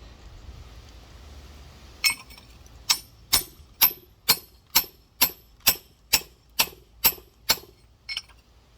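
Steel rock hammer tapping on a large geode: after a quiet couple of seconds, one strike and then a steady run of sharp, ringing hits about two a second. These are light, even blows to drive the crack around the geode and shear it open.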